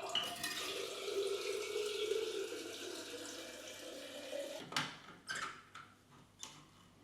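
Water running from a kitchen tap into a container, the note of the filling rising slowly as it fills. After about four and a half seconds the tap is shut off, followed by a sharp knock and a couple of light clinks.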